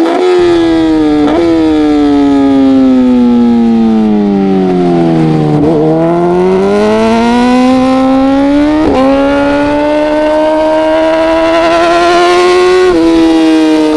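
Racing motorcycle engine at full race pace. The revs fall for about six seconds with two short throttle blips on downshifts as it brakes into a corner, then climb as it accelerates out, with upshifts about nine seconds in and near the end.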